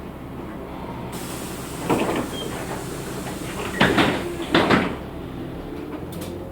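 Doors of a LiAZ 6213.65 articulated bus working at a stop, over the bus's steady engine rumble. A hiss begins about a second in, followed by a thud at about two seconds and a double thud at about four seconds.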